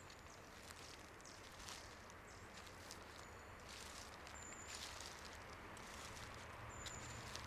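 Faint footsteps on a leaf-strewn road, with three brief, high, thin bird notes a few seconds apart and a low steady rumble beneath.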